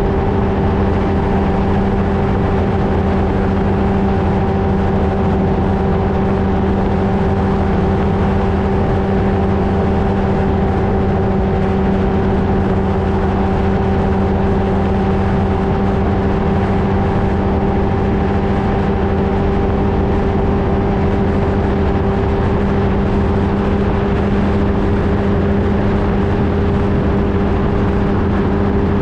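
Flightstar II ultralight's engine and propeller running at a steady, unchanging pitch with a constant low rumble underneath, as at cruise power.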